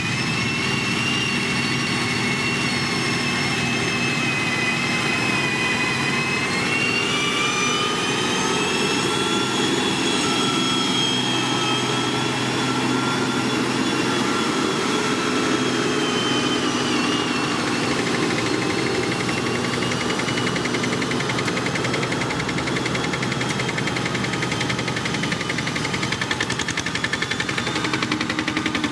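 Heavy road-construction machine's diesel engine running steadily under load, with a high whine that rises over the first several seconds and falls away after the middle. A fast, even pulsing grows under it near the end.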